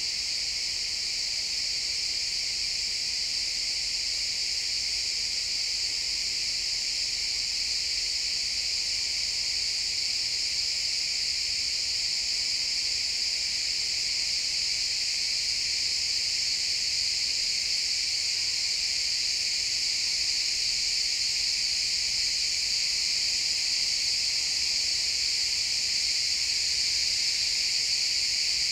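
A chorus of crickets chirping in a steady, unbroken high-pitched drone.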